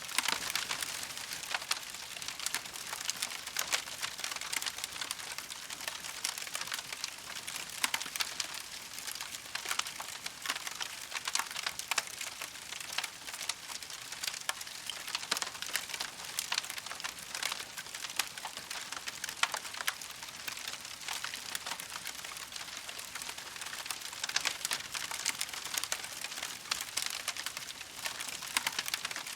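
Wood campfire burning with dense, steady crackling and frequent sharp pops over a soft hiss.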